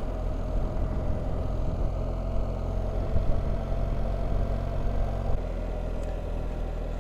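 BMW R1300GS boxer-twin engine running steadily under way, its note changing and dropping slightly in level about five seconds in.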